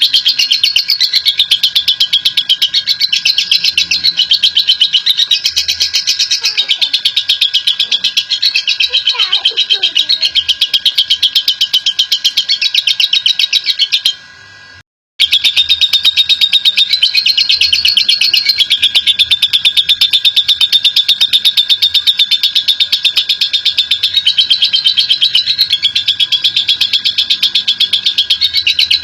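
Lovebird giving its long 'ngekek' chatter: a fast, unbroken run of shrill notes held for many seconds. It cuts off briefly about halfway, then starts again.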